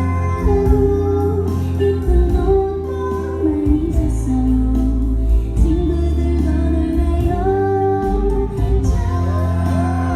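A woman singing a pop ballad live over amplified backing music through the concert loudspeakers, with a steady low bass beneath her voice.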